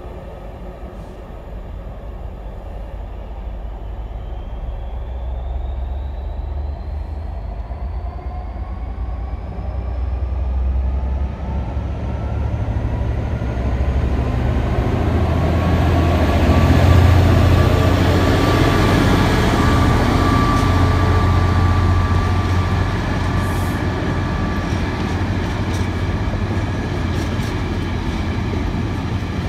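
A freight train of Network Rail ballast hopper wagons approaching and passing close by. A deep rumble and a slowly rising tone build to their loudest about halfway through, then the wagons roll past with a few sharp wheel clicks near the end.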